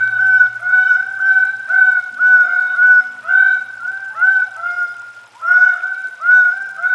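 Greater birds of paradise calling: a chorus of loud, honking calls, each a short note falling at its end, repeated several times a second and overlapping, with a brief lull past the middle.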